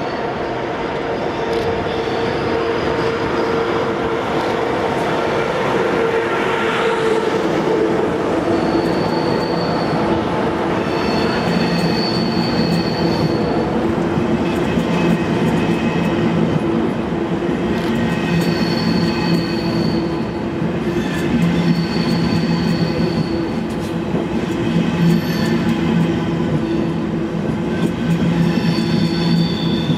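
Deutsche Bahn ICE high-speed train running slowly along the platform, with a steady low hum. High-pitched squeals come and go from about nine seconds in.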